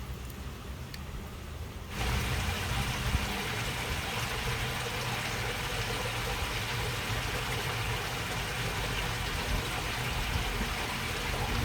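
Water babbling and rushing along a narrow channel, a steady even hiss over a low rumble, which gets suddenly louder about two seconds in.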